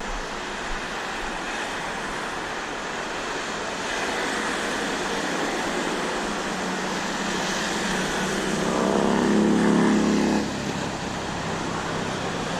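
Road traffic noise, steady, with one vehicle growing louder and passing by a little past the middle.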